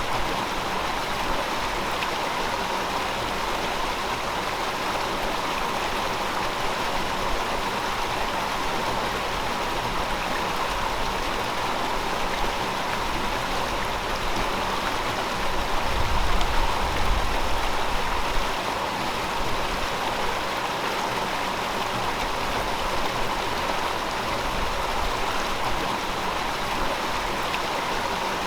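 River water flowing over rocks in a steady rushing wash, with a brief low rumble swelling about halfway through.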